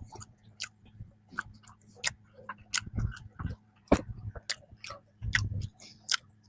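Close-up chewing of soft bread: a string of small wet mouth clicks with a few soft low thumps of the jaw.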